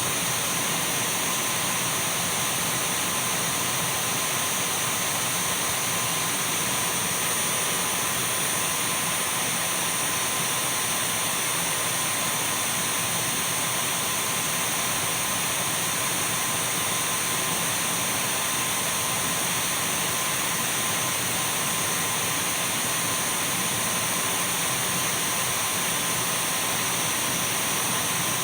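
Dyson V12 cordless stick vacuum running steadily: an even rush of air with thin, unchanging high whistling tones from the motor.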